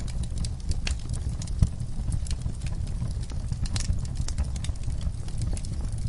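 Wood fire crackling in a fireplace: irregular sharp pops and snaps over a steady low rumble, with one louder pop about a second and a half in.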